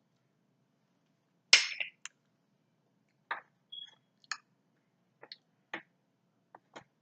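Close-miked eating sounds from a seafood meal. A sharp crack or snap comes about one and a half seconds in, followed by scattered short mouth smacks and clicks at uneven intervals.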